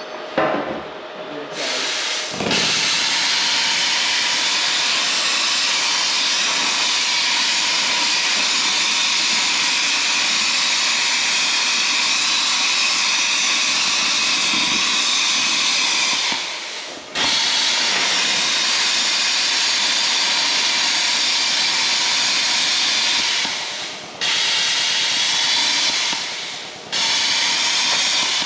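Cutting torch hissing steadily as it cuts into the excavator's pin bushings to relieve them, cutting out briefly three times.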